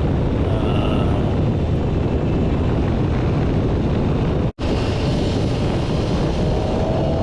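Wind rushing over the microphone with a Honda Rebel 300 motorcycle running at road speed, a steady low rumble. The sound cuts out completely for an instant about four and a half seconds in.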